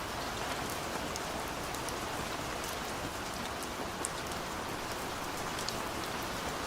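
Heavy rain pouring steadily, an even hiss with scattered sharp drop splashes throughout.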